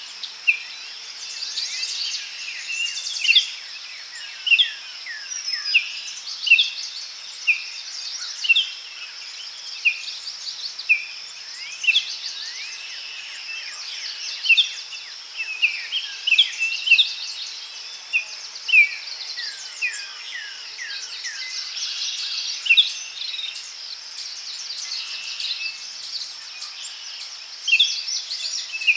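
Daytime forest ambience: many birds chirping and calling in short, repeated notes and quick trills, over a steady high-pitched insect drone.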